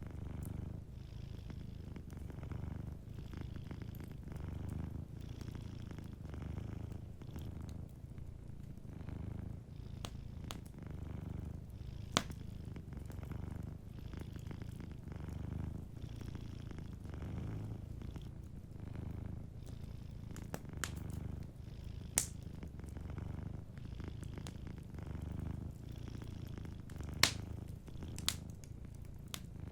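A cat purring steadily, its low rumble swelling and easing with each breath. A fireplace pops sharply a few times over it.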